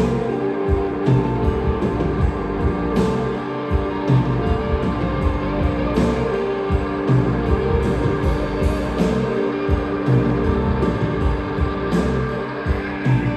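Rock band playing live: an instrumental passage of guitars over a steady drum beat, with no singing.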